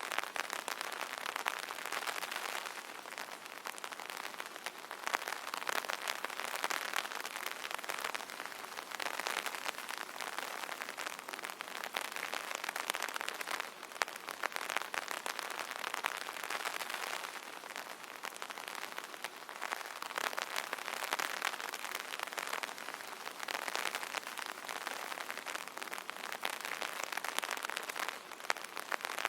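Rain falling on an umbrella: a dense, steady spatter of many small drop impacts that swells and eases every few seconds.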